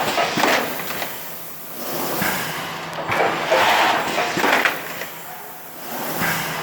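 ER70 high-speed thermoforming machine running in production: a repeating cycle of hissing air bursts and sharp knocks that comes round every couple of seconds.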